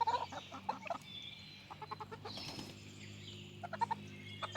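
Chickens clucking in several short bursts of quick clucks.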